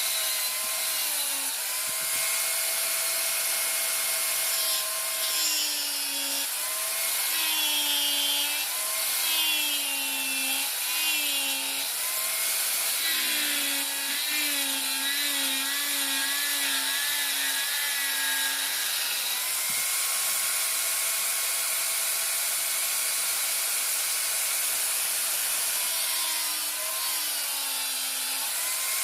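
Electric grinder grinding steel. It runs steadily with a hiss of abrasion, and the motor's hum sags in pitch again and again as the work is pressed against it.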